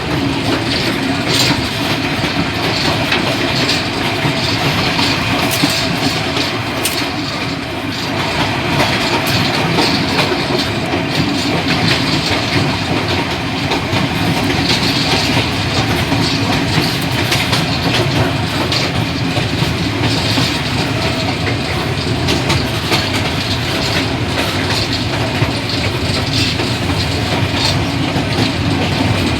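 Old passenger train running along the track, heard from on board: a steady, loud rumble of the carriage with occasional sharp clicks from the wheels and rails.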